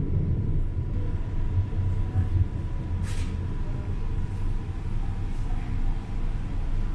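Cabin noise of a TCDD E23000 electric multiple-unit train running: a steady low rumble of wheels on track with a faint steady high tone, and a short hiss about three seconds in.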